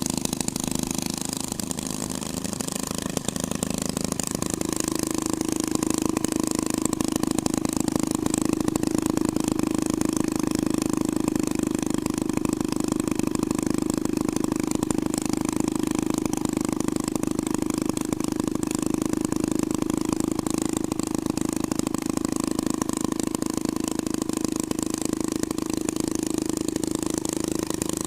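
Twin-engine hot rod running steadily. The engine sound sags briefly about two seconds in, then comes back a little louder and holds steady from about four seconds on.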